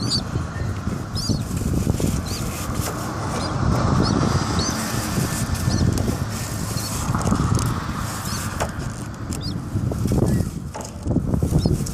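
Birds nesting in a house vent line giving short, high chirps about once a second, over a steady low rumble.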